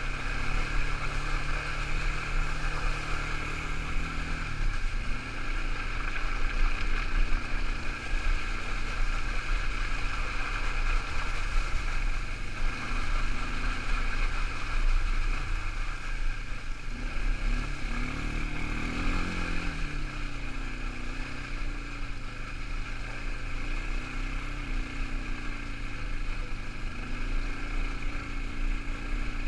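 Quad bike engine running under way, its pitch dropping about four seconds in, then rising and falling again a little past the middle as the throttle changes.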